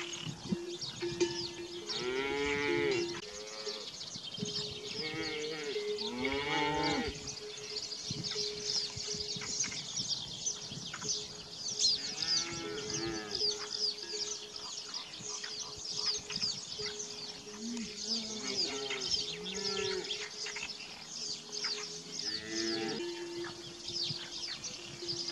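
Livestock calling: about six drawn-out calls, rising and falling in pitch, spread through the stretch. Behind them small birds chirp constantly and a steady hum runs on.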